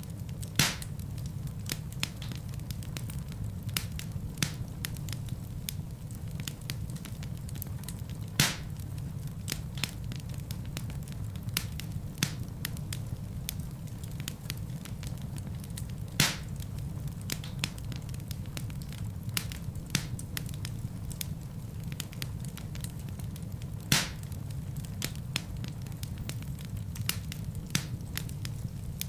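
Wood fire burning in a fireplace: a steady low rumble of flames with constant light crackling and four loud, sharp pops spaced about eight seconds apart.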